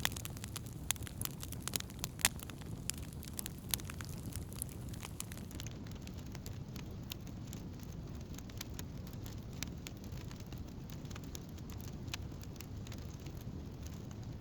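Wood campfire crackling and popping, with sharp snaps that come thick at first and thin out after about four seconds, over a steady low rumble.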